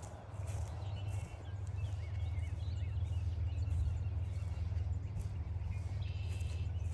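Wild birds calling in woodland: scattered short chirps and whistled notes, with a longer held call near the end. All of it sits over a steady low rumble.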